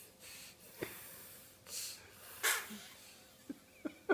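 A small child breathing noisily in three breathy huffs, with a short sharp vocal sound about a second in.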